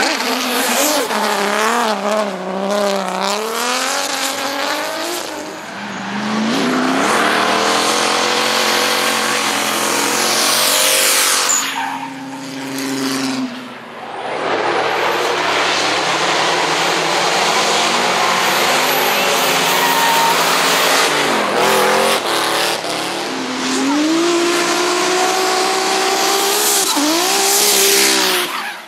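Turbocharged BMW drift cars with engines revving hard, the pitch rising and falling as the throttle is worked, over loud tyre squeal from sustained sideways slides. There are several passes, with short dips in level about 5, 14 and 22 seconds in.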